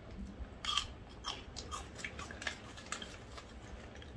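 Someone chewing small, crunchy Aji Cheese crackers: a run of soft crunches about every half second, the strongest about three-quarters of a second in.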